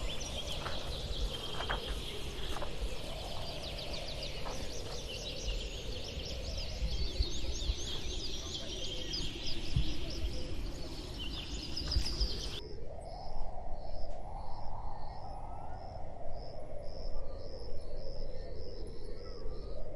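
Wild birds chirping and calling densely together. About two-thirds of the way in, an abrupt cut switches to regular high chirps about two a second over a low wavering tone.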